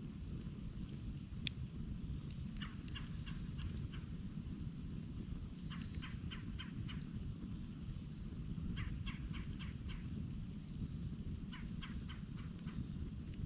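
Campfire burning with a steady low rumble, crackling in quick runs of small snaps, with one sharp pop about a second and a half in.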